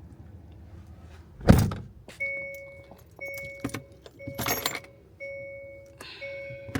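Car interior warning chime: a two-note electronic beep repeating about once a second, after a heavy thump from the car door shutting about a second and a half in. Keys jangle about halfway through.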